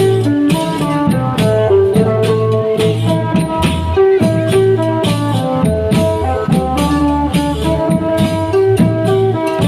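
Thai klong yao long-drum band playing processional music: steady drum beats under rattling hand percussion, with a melody of short repeated notes.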